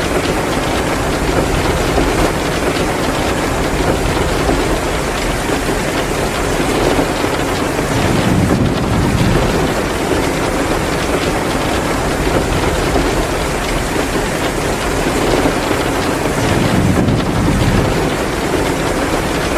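Heavy rain pouring down in a steady, dense hiss, mixed with the crackle of a wood fire burning in a fireplace. A low rumble swells up briefly twice.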